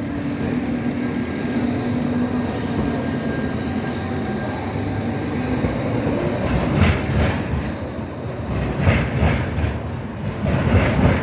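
Zagreb street tram running past on its rails, with a steady hum for the first couple of seconds. From about halfway through, its wheels knock over rail joints in three quick pairs of clacks, about two seconds apart, which are the loudest sounds.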